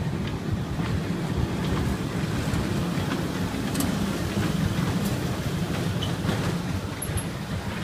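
Small amusement-park ride-on train running, heard from on board: a steady low rumble with a few light clicks.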